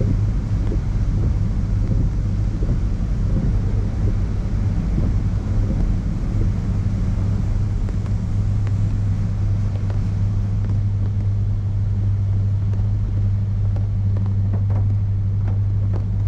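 Automatic tunnel car wash machinery running: a steady low hum under a constant hiss of spraying water and equipment noise, with a few faint clicks near the end.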